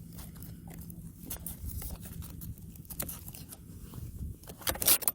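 A strap being handled and fastened by hand: scattered clicks, rustles and scrapes, with a louder rasp near the end.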